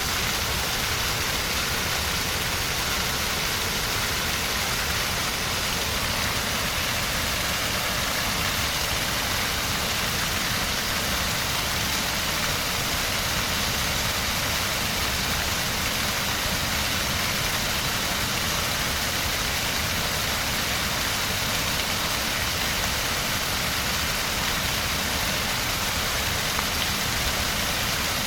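River rapids: fast water rushing steadily over rocks, an even, unbroken hiss with a low rumble beneath.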